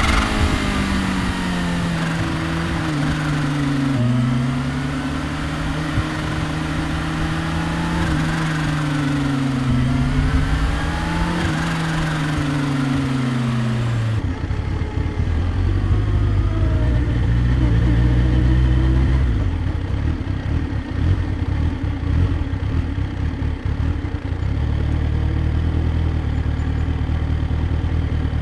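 Kawasaki Ninja H2's supercharged inline-four running under way, its note rising and falling gently over a rush of road and wind noise. About halfway through the road and wind noise drops away and the engine falls to a low, rougher idle as the bike slows and stops.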